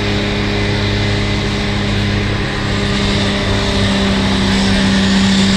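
Diesel pulling truck's engine running loud and steady, getting a little louder past the middle.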